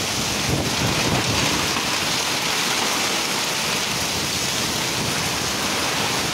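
Heavy downpour: a steady hiss of torrential rain.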